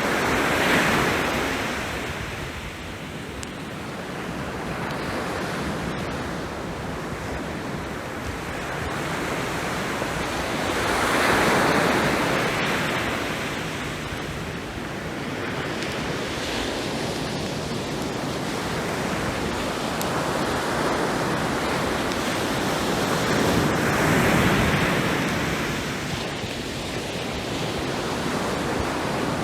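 Ocean waves breaking on the shore, the surf swelling and fading three times, roughly every twelve seconds.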